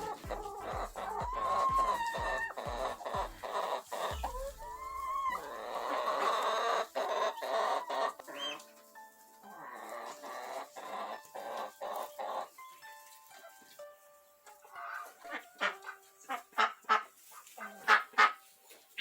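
Chickens clucking and calling over background music, with a run of short, loud clucks near the end.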